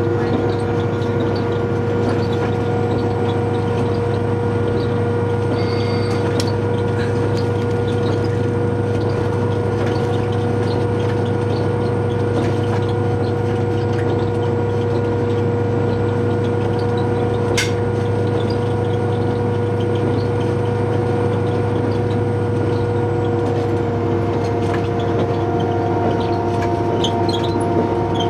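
Diesel train's engine running at a steady pitch while the train travels. There is one sharp click about two-thirds of the way through.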